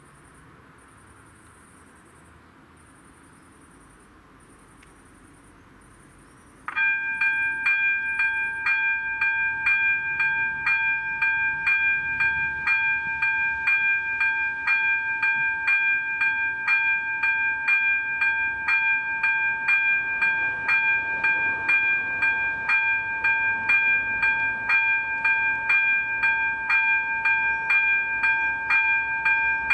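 Level crossing warning bell switching on about a quarter of the way in and ringing steadily, a multi-tone electronic ding repeating about twice a second: the crossing has been activated for an approaching train. Before it starts there are only faint high chirps.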